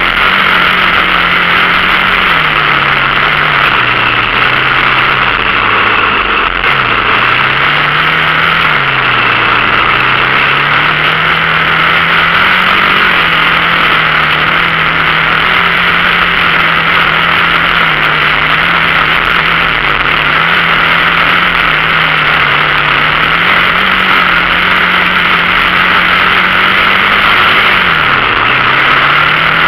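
Dirt bike engine running steadily as it is ridden, its pitch rising and falling with the throttle and dropping off briefly a few times.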